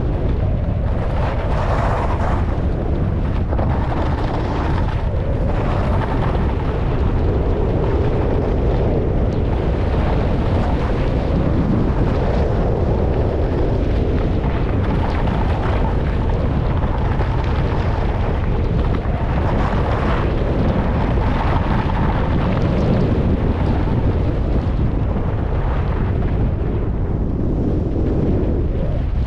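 Wind rushing and buffeting hard on the microphone of a skier going fast downhill in a strong gale, a loud steady roar that swells every few seconds.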